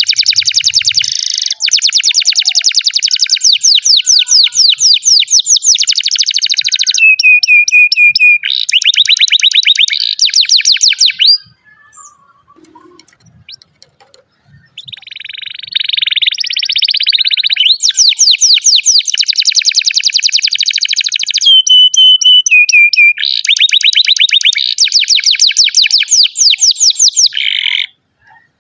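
Domestic canary singing a long song of fast, rapid-fire trills, broken by a few short held whistled notes and a pause of about three seconds midway.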